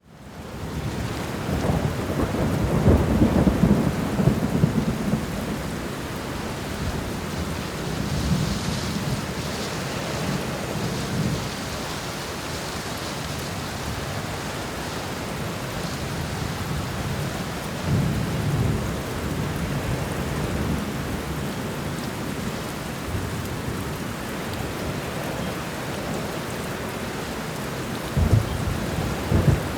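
Steady heavy rain with rolling thunder. It fades in from silence at the start, the longest and loudest rumble comes a few seconds in, and further rumbles come about two-thirds of the way through and near the end.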